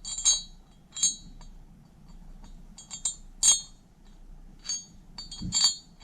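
Metal tools and parts clinking as they are handled on a workbench: about five short, sharp clinks, each ringing briefly at the same high pitches, with a dull knock near the end.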